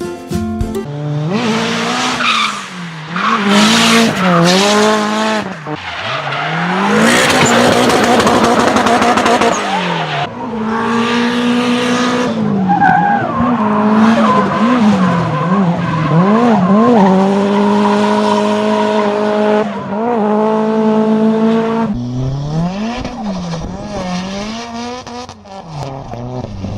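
Tuned car engine revving hard, its pitch climbing and dropping again and again, with long stretches of tyre squeal over it. After about 22 seconds it quietens to lighter revving.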